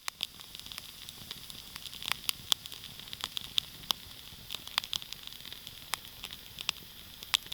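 Campfire burning with irregular sharp crackles and pops over a steady hiss.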